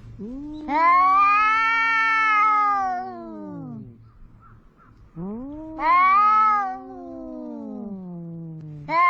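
Two domestic cats yowling at each other in a quarrel: long, drawn-out caterwauls that rise and then fall in pitch, each lasting about three to four seconds, with a short pause between calls and a new yowl starting near the end.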